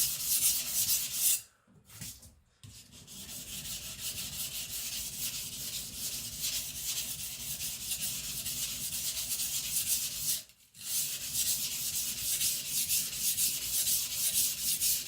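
Knife blade of very hard AEB-L steel (HRC 66) being ground on a whetstone in quick back-and-forth strokes: a steady gritty scraping, broken by two short pauses, about a second and a half in and about ten seconds in. The steel is so hard that the stone barely bites, as the sharpener says.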